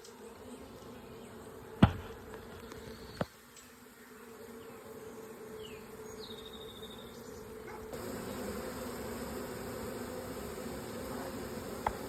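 Swarm of honey bees buzzing in a steady hum that grows louder about two-thirds of the way through. Two sharp knocks about two and three seconds in.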